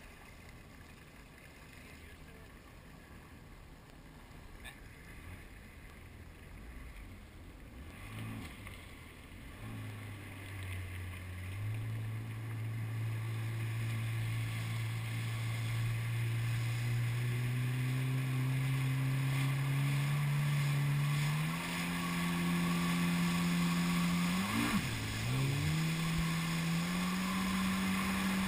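Jet ski engine coming in after a faint start and growing louder. Its pitch climbs in steps as the throttle opens, with a quick drop in revs and back up near the end.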